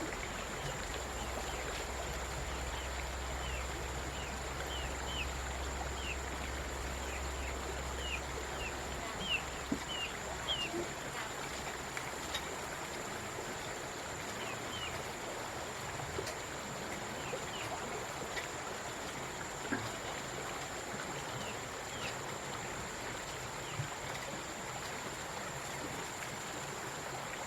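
Outdoor rural ambience: a steady hiss like running water, a thin, steady high whine, and short bird chirps over the first ten seconds or so. A low hum fades out about eleven seconds in, and a few faint clicks are scattered through.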